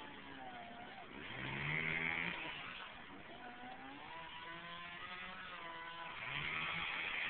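An engine running and revving up and down, louder twice: once about two seconds in and again near the end.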